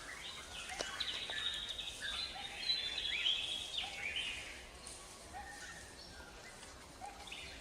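Forest ambience: birds chirping and trilling over a faint steady hiss, with the calls busiest in the first few seconds and thinning out after.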